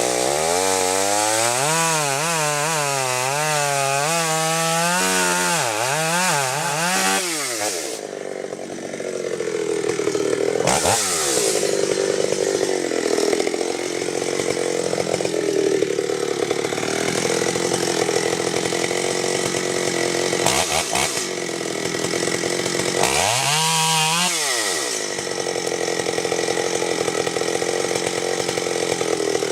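Chainsaw running hard while cutting wood, its engine pitch rising and falling as the chain loads up and frees, then settling into a steadier, rougher cut with a few brief dips in speed.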